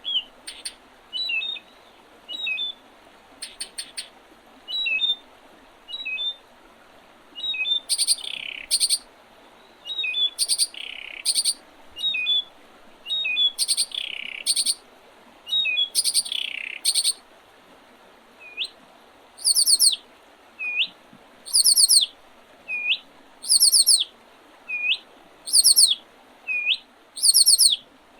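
Wild songbirds singing and calling in spring, with several short chirps and louder song phrases. In the second half, high, fast trills repeat about every two seconds, each answered by a short upward-swooping call note.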